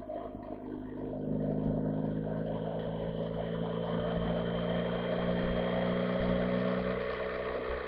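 BMW R 1250 GS boxer-twin engine running with the motorcycle under way, as picked up by a camera mounted on the bike. Its note rises a little and gets louder about a second in, then holds steady.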